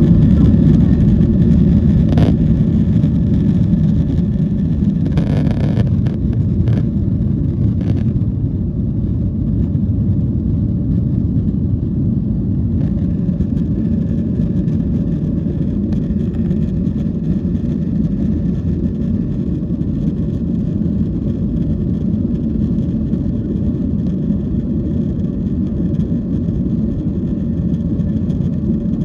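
Steady low cabin noise of a Boeing 737-800's CFM56-7B turbofan engines and airflow, heard from inside the passenger cabin, easing slightly in level over the first ten seconds. A few faint clicks early on.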